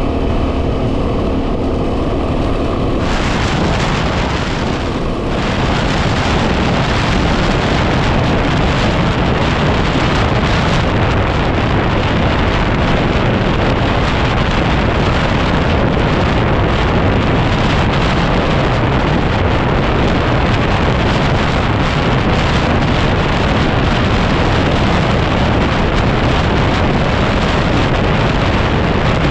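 Heavy wind buffeting on the microphone of a 2010 Yamaha WR250R being ridden, over the steady note of its single-cylinder engine. About three seconds in, the wind noise swells and drowns the engine note for the rest of the time.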